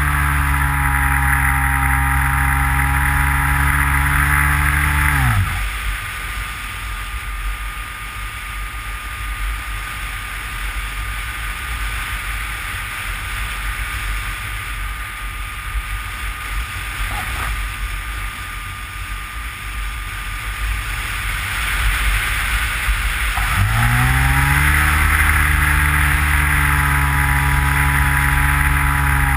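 Electric motor and propeller of a Skywalker FPV model plane, heard from its onboard camera: a steady whine that cuts off about five seconds in, leaving only rushing wind noise while the plane glides. Near the end the motor comes back on, its pitch rising, then holds steady.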